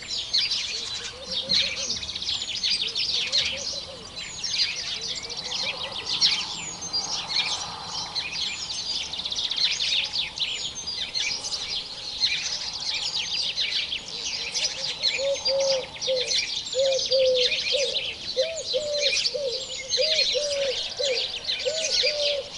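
Many small birds chirping and twittering continuously in a dense chorus. In the second half, a lower bird call repeats steadily, about two short notes a second.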